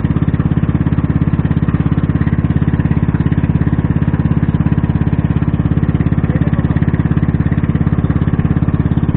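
A small fishing boat's engine running steadily at constant speed, a rapid even pulsing with no change in pitch.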